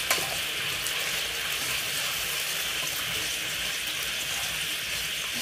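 Oil sizzling steadily in an aluminium karahi as a mixture with garlic cloves fries and a metal spatula stirs it, with one sharp clink of the spatula on the pan right at the start.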